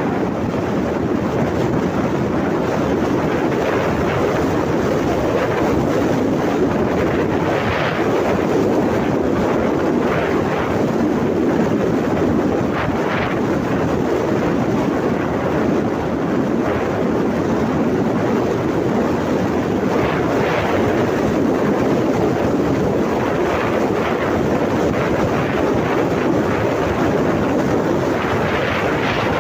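Steady rumble of a moving vehicle, heavily mixed with wind buffeting the microphone, with faint brief rattles every few seconds.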